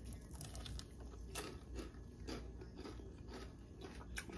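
Close-up chewing of a mouthful of crispy fried pork rib: a faint, steady run of crunches, about two a second.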